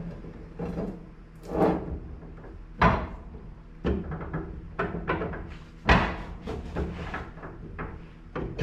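Car front-suspension parts knocking and clunking as they are worked into place by hand, a series of uneven knocks with the loudest about 3 and 6 seconds in.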